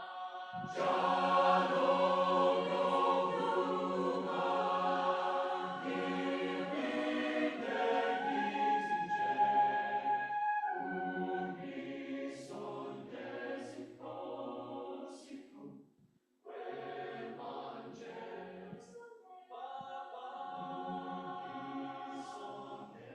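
Choir singing a South African choral song in several-part harmony, with a short break about sixteen seconds in before the voices come back in.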